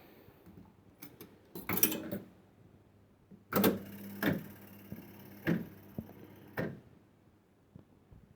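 1970s penny-play fruit machine being played: a few clicks, then the reels run on a steady motor hum for about three seconds, with a clunk as it starts and three more as the reels stop one after another.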